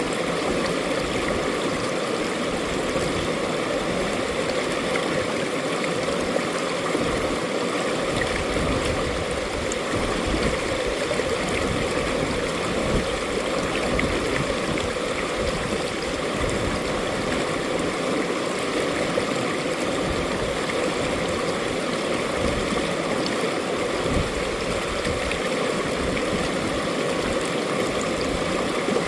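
Mountain valley stream flowing, a steady, unbroken rush of running water.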